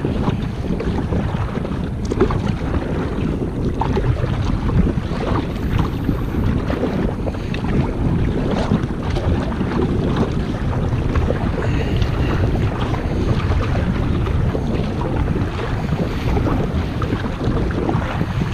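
Wind buffeting the microphone over choppy water splashing around a kayak as it is paddled through rough water, with short splashes scattered throughout.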